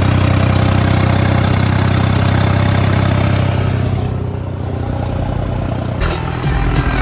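Tractor engine running steadily at low speed. About six seconds in the sound cuts to another take, with clattering over the engine.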